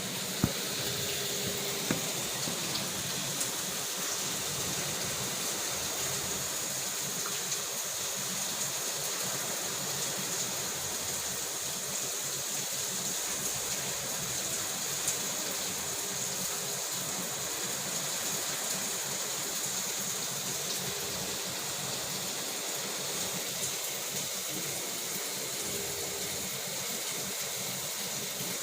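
Heavy rain pouring steadily, an even rushing hiss, with a few sharper drip or splash knocks now and then.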